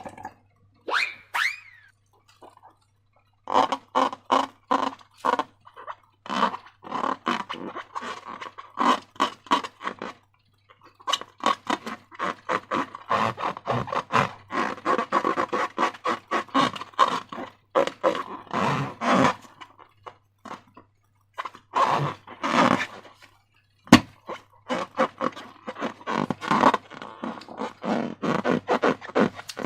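Sticky slime being squeezed and stretched by hand, giving runs of short wet squelches and crackles broken by brief pauses, with one sharp click about three-quarters of the way through.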